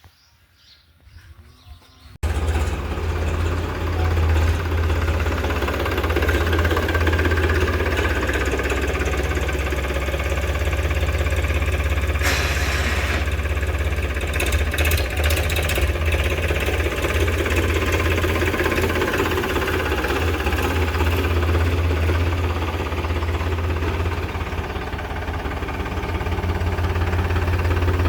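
A Powertrac farm tractor's diesel engine running steadily with a deep rumble. It cuts in abruptly about two seconds in and has a few brief rattles in the middle.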